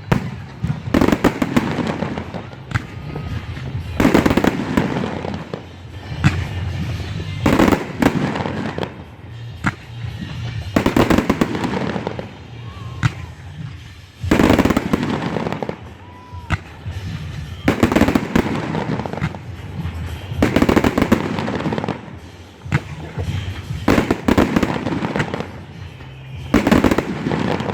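Aerial fireworks going off: a loud boom every few seconds, with crackling and low rumble between the bursts.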